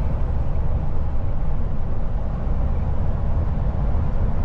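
Steady low rumble of a moving vehicle, heard from inside the cabin, with no distinct knocks or changes.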